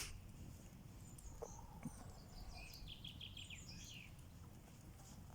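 Faint bird chirping: a few high notes about a second in, then a quick run of short chirps about three seconds in, over a low steady outdoor background hum.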